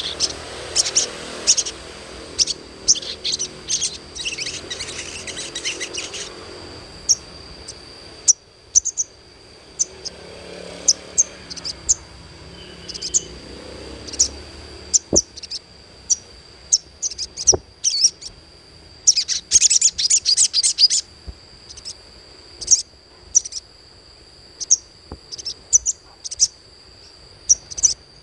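Ruby-cheeked sunbird (sogon) calling in short, sharp, high chirps, scattered and irregular, with a quick dense run of chirps about two-thirds of the way in. A steady high tone, like an insect's drone, runs underneath.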